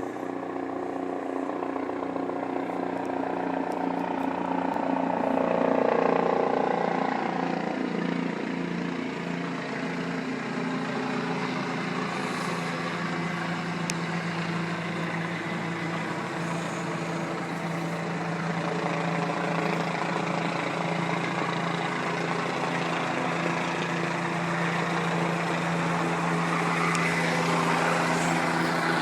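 Helicopter engine and rotor running with a steady, layered drone, getting louder around six seconds in and again near the end.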